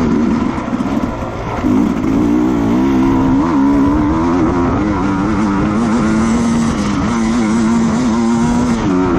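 Racing motorcycle engine running at high, fairly steady revs. It drops off briefly about a second in, then holds steady again with small wavers in pitch.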